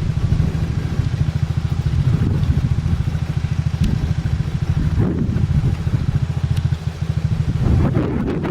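Small 50 cc child's motorcycle engine running steadily, mixed with wind buffeting the microphone.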